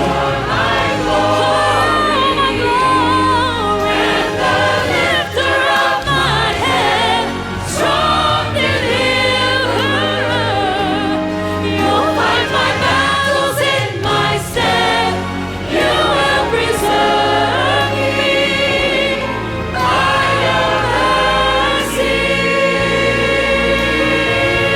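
Congregational or choir worship singing with instrumental accompaniment: a hymn or worship song sung by many voices over a steady bass.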